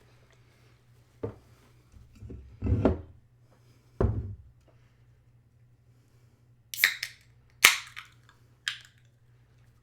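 A few dull knocks, then three sharp clicks about a second apart near the end, from things being handled and set down at a dinner table.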